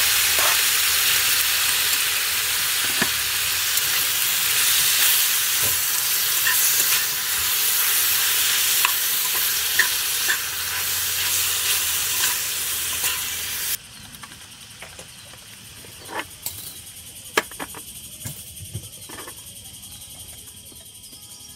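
Food sizzling and crackling in a hot pan, a loud, steady frying hiss that cuts off suddenly about two-thirds of the way in. A quieter background follows, with a few sharp clicks and knocks.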